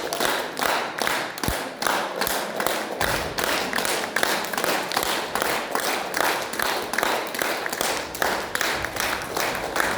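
Audience clapping in unison at the end of a dance performance, a steady rhythm of about three claps a second.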